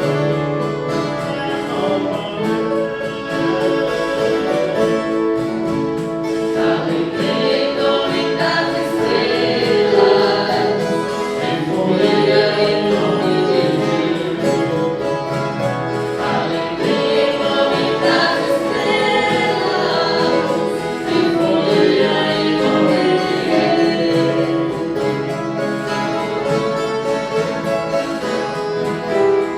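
A group of voices singing together like a choir, accompanied by an ensemble of viola caipira (Brazilian ten-string guitars).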